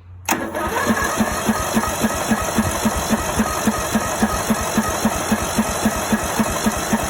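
17 HP Briggs & Stratton Intek OHV engine on a ride-on mower cranking over on its electric starter with the choke on, an even chugging about four beats a second, without catching, after years of sitting. It starts suddenly and cuts off near the end.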